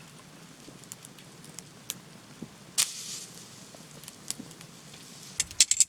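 Wood campfire crackling, with scattered sharp pops, a stronger one about three seconds in and a quick run of clicks near the end.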